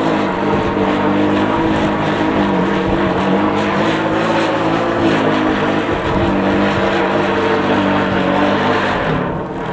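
A steady droning hum over the rushing hiss of strong wind, easing off near the end.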